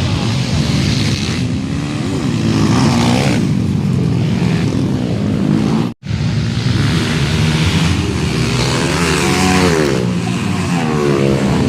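Motocross dirt bike engines revving up and down as the bikes race. The sound drops out for an instant about halfway through.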